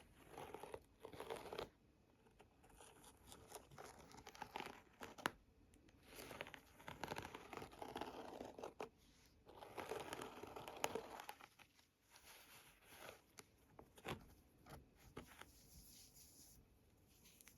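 A handbag being scratched and its fabric rubbed and handled, in irregular bursts of close scratchy rustling with occasional sharp clicks, quieter in the last few seconds.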